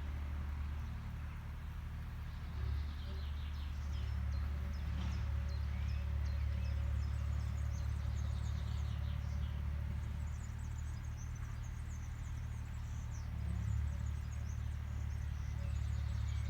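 Steady low engine drone of an agricultural machine, swelling slightly now and then, with small birds chirping in quick high notes throughout.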